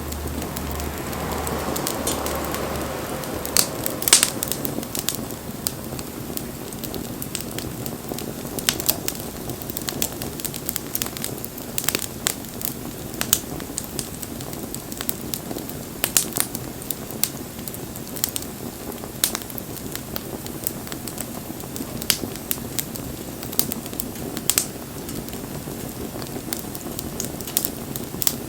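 Wood campfire crackling, with sharp irregular pops and snaps over a steady low hiss of burning. A soft rushing swell comes in the first few seconds.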